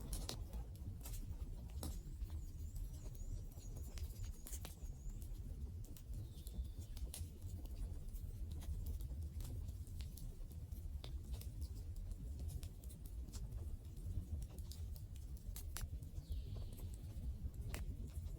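Wood fire burning: irregular crackles and sharp pops over a low, steady rumble of the flames, with faint high whistling twice.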